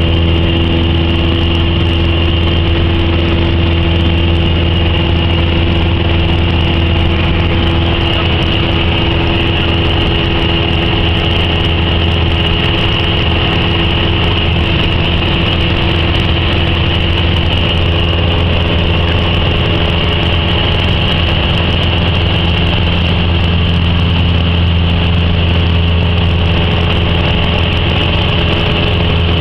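Cessna 172's piston engine and propeller running loud and steady at constant power, heard from inside the cabin.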